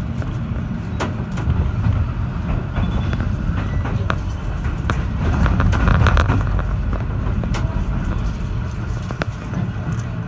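Inside an H set passenger carriage running on the rails: a steady low rumble with scattered sharp clicks and rattles, swelling a little about five to six seconds in.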